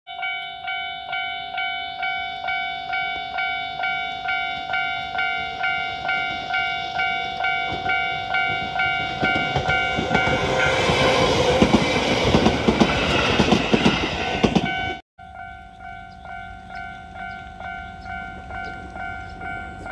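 Railway level-crossing warning bell ringing steadily at about two strikes a second. A train passing through brings up a louder rumble from about halfway in. The sound cuts off abruptly about three-quarters in, then the bell carries on more quietly.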